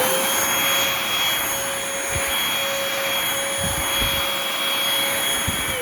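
Bissell Featherweight corded stick vacuum running at full speed on carpet: a steady motor whine with a loud rush of air and a few soft low thumps. Near the end it is switched off and the whine falls in pitch as the motor spins down.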